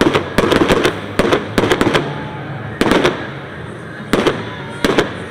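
Aerial fireworks display: shells bursting in an irregular run of sharp bangs, some singly and some in quick clusters of two or three, each with a short rumbling tail.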